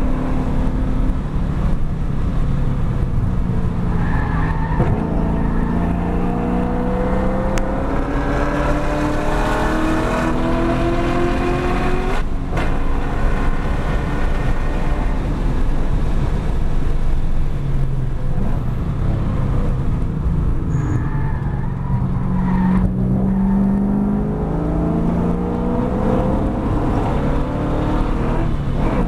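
2013 Camaro 1LE's 6.2-litre V8, heard from inside the cabin, running hard under full throttle. The revs climb steadily, drop sharply at an upshift about twelve seconds in, then climb again. Around twenty seconds in the engine settles lower as the car brakes for the corner, then pulls up through the revs again near the end.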